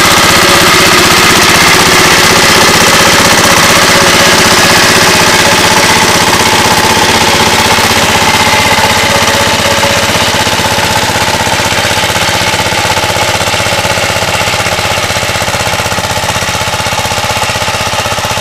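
Two-wheel tractor's engine running steadily, loud and close, with a rapid hammering rhythm; it eases off slightly about halfway through.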